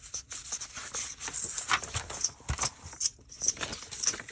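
Paper being handled on a tabletop: rustling and sliding with an irregular run of light taps and clicks.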